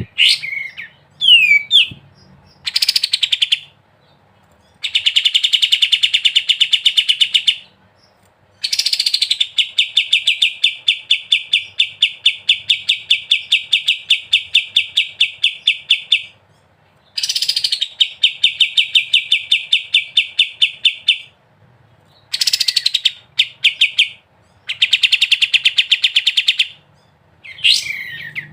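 Kapas tembak songbird singing in long, fast rattling trills ('ngebren'): runs of rapidly repeated notes lasting from about two up to seven or eight seconds, separated by short pauses. There are a few short whistled glides near the start and the end.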